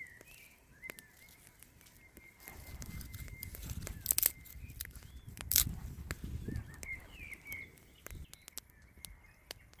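Birds calling in the open, with short chirps over a thin steady high note. In the middle come low rustling handling noise and two sharp knocks, about four and five and a half seconds in.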